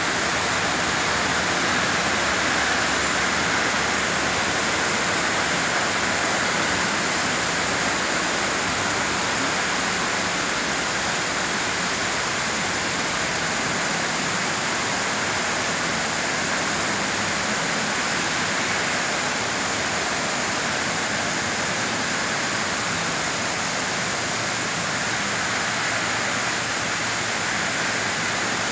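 Heavy tropical downpour: a steady, unbroken hiss of heavy rain falling.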